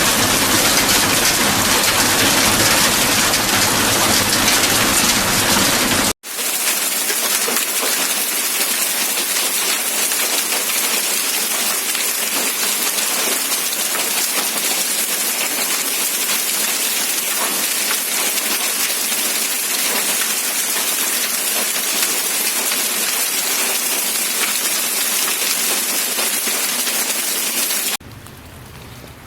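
Steady rain falling, an even hiss of drops. About six seconds in it cuts sharply to a brighter rain with no deep rumble, and near the end it drops to a quieter, softer rain.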